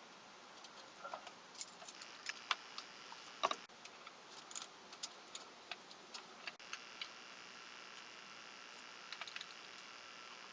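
Irregular metallic clicks and clinks of hand tools and engine parts being handled, the loudest about three and a half seconds in, with a quick cluster near the end.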